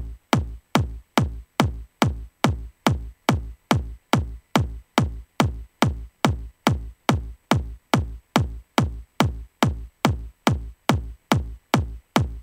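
Electronic four-on-the-floor kick drum playing on its own at a steady trance tempo, a bit over two hits a second. Each hit is a short pitch drop into a low thump.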